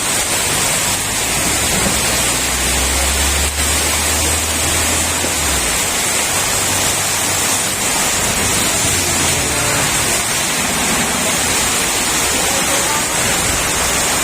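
Heavy rain pouring down in a steady, loud wash. A low engine-like hum runs under it from about a second in until about six seconds in.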